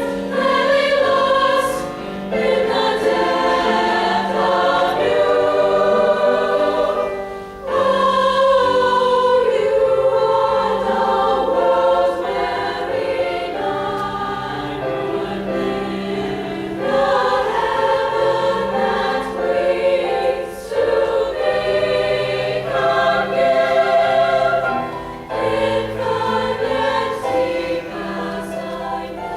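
Women's choir singing a piece in harmony in sustained phrases, with piano accompaniment.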